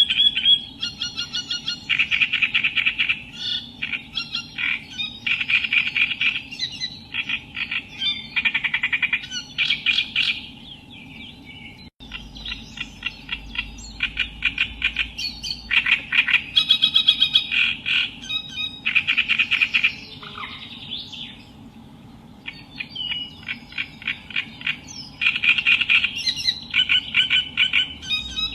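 Reed warbler (kerak basi) singing: bursts of rapidly repeated chattering notes with short pauses between phrases, and longer lulls about eleven and twenty-two seconds in.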